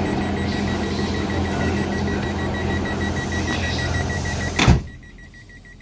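Diesel train engine running steadily with a low drone and a faint rapid pulsing high tone. About four and a half seconds in, a sharp knock, and the engine sound drops away to a much quieter background.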